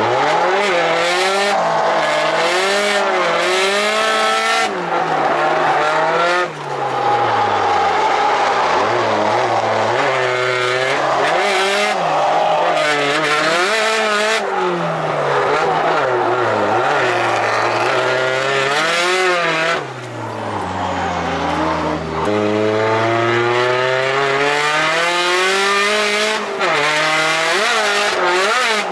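Drift car's engine revving hard, its pitch climbing and falling every second or two as the throttle is worked through slides, with tyre squeal over it. The engine briefly drops off twice, once about six seconds in and for a couple of seconds about twenty seconds in.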